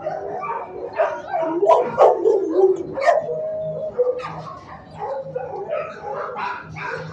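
Shelter kennel dogs barking and whining, many calls overlapping with no break.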